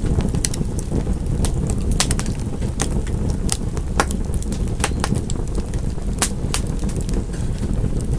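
Fire crackling in a fireplace: irregular sharp pops and snaps, a few a second, over a steady low rumble of the burning fire.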